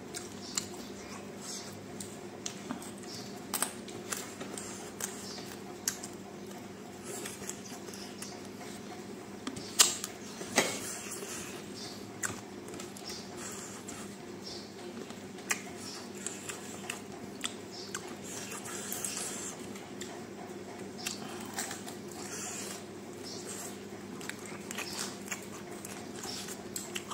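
Close-up eating sounds of a man chewing chicken fingers: scattered wet clicks, squishes and bites over a steady low hum, the loudest pair of bites about ten seconds in.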